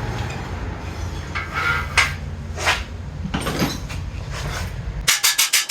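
Steel hammer and cam bearing driver knocking a few times with a metallic ring, then, near the end, a rapid run of hammer blows driving a cam bearing into an LS engine block, with a steady low hum underneath that stops abruptly as the hammering starts.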